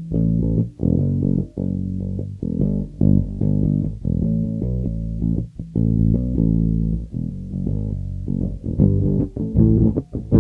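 Harley Benton MB-4 electric bass guitar played solo: a run of plucked notes, some repeated, with short gaps between phrases.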